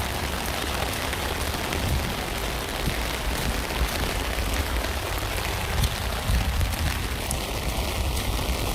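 Steady rain falling on a tent, an even hiss over a low rumble, with many small drops ticking on the fabric.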